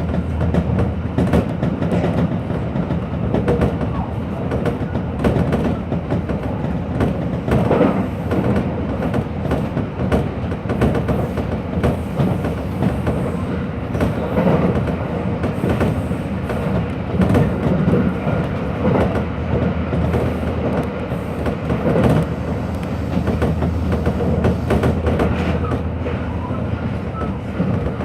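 Hanshin Electric Railway train running, heard from inside the front car: a steady rumble of motors and wheels with frequent clicks of the wheels over rail joints.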